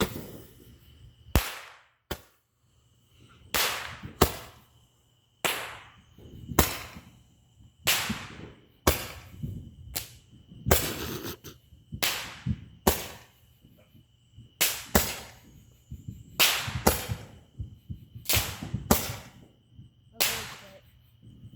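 Roman candle firework shooting a long series of sharp pops, roughly one or two a second, each trailing off briefly. Crickets chirp steadily behind.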